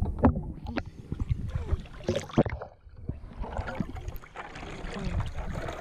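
Water splashing and sloshing in a pool, with irregular sharp splashes and knocks in the first half, then a steadier wash of moving water.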